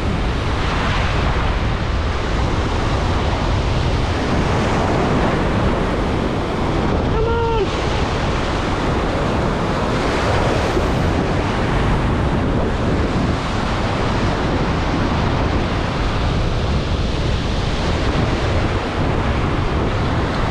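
Steady rush of wind buffeting the microphone mixed with the wash of ocean surf. A brief pitched call cuts through about seven seconds in.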